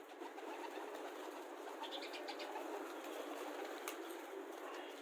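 Domestic pigeons in a loft, cooing softly and shuffling about, with a few small clicks.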